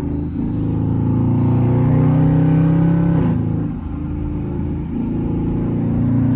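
Straight-piped 5.7-litre Hemi V8 of a 2014 Jeep Grand Cherokee pulling hard: the exhaust note climbs in pitch, drops at a gear change about three seconds in, then climbs again after another shift near five seconds.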